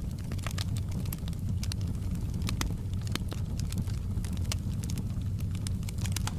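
Fire crackling in a fireplace: frequent sharp snaps and pops over a steady low rumble of the burning fire.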